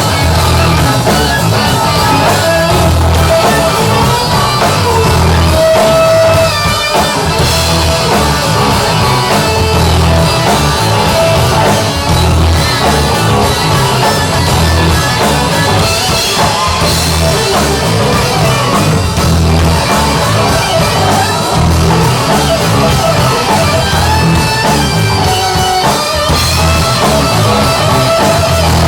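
Live hard rock band playing an instrumental passage: electric guitar lines over bass and drum kit.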